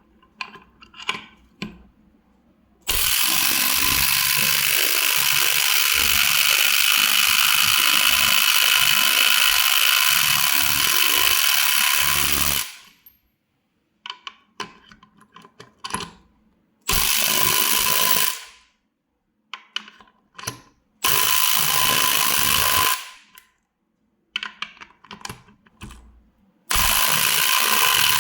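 Milwaukee M12 cordless impact tools (impact driver and impact wrench) running under power: one long run of about ten seconds, then three shorter runs of a couple of seconds each. Scattered clicks and knocks fall between the runs.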